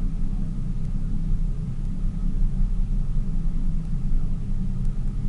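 Tour boat's motor running steadily under way, a continuous low rumble.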